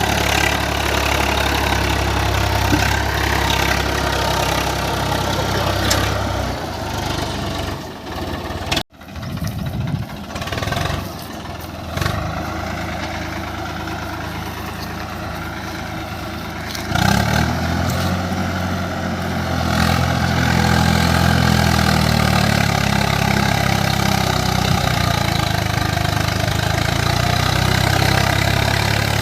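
Swaraj 855 FE tractor's three-cylinder diesel engine running steadily under load while pulling a seven-tine chisel plough. The sound breaks off for a moment about nine seconds in and comes back quieter. From about seventeen seconds the engine note grows louder and heavier again.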